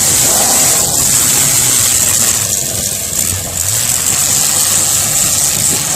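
Demolition derby car engines running steadily together, with no crash impacts standing out.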